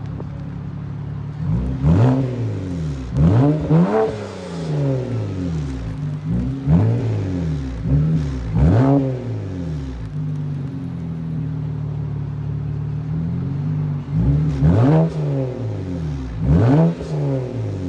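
BMW 335i's N54 twin-turbo inline-six, with its mufflers deleted but the stock exhaust flap kept, idling and being blipped several times. Each quick rev rises and falls in pitch, mostly in pairs, and settles back to a steady idle between them.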